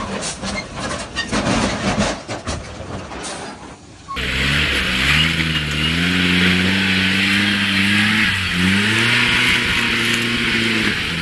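A vehicle's engine accelerating: its pitch rises and holds, dips briefly about eight and a half seconds in and climbs again as with a gear change, over a steady hiss of road noise. Before an abrupt cut about four seconds in there is a jumble of sharp clicks and knocks.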